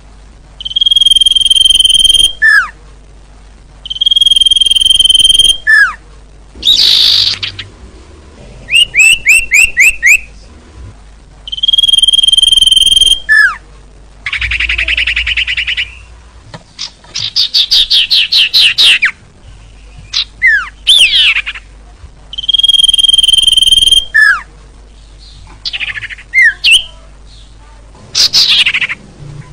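Bird-lure recording of small songbird calls. A long, steady, high whistle ending in a quick downward note comes back identically every few seconds. Between the whistles are rapid trills, buzzy chatters and fast sweeping notes.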